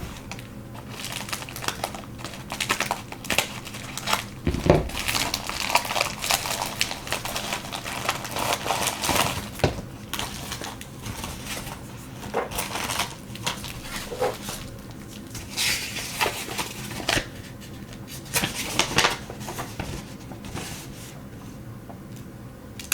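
Hands opening a mailed package: irregular rustling and crinkling of packaging with small clicks and knocks of items being handled, and one louder knock about five seconds in.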